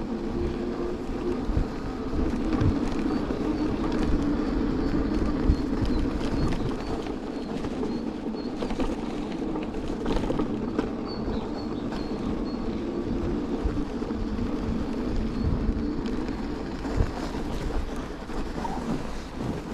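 An electric two-wheeler riding along a cleared snowy road: steady tyre rumble and road noise with wind buffeting the microphone, and small bumps now and then.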